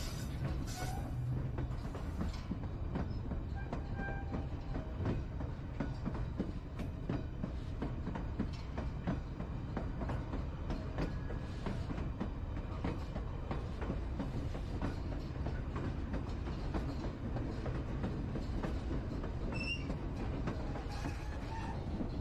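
White Pass and Yukon Route narrow-gauge passenger train running, heard from aboard: a steady low rumble with the clickety-clack of its wheels over the rails.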